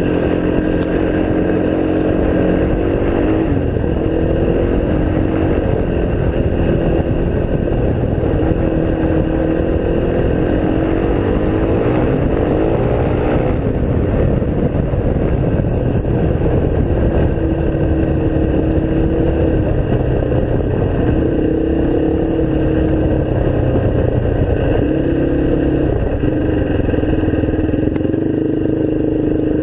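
Single-cylinder off-road engine running under way, its revs rising and falling as the rider works the throttle. About thirteen seconds in there is a long climb in revs that cuts back suddenly.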